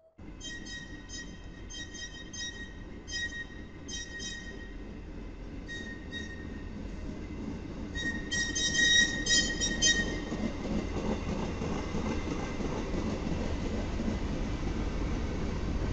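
Freight train rolling past, a steady rumble of wheels on rail that slowly grows louder. Through roughly the first two-thirds, high wheel squeal comes and goes in short irregular bursts, then fades.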